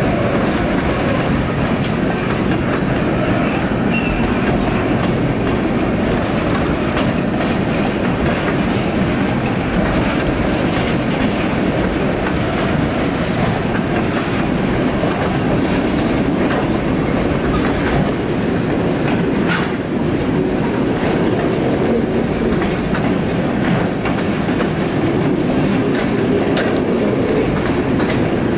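Freight train cars rolling past, refrigerated boxcars and then boxcars. A steady rumble of steel wheels on rail, with scattered clicks from the wheels crossing rail joints.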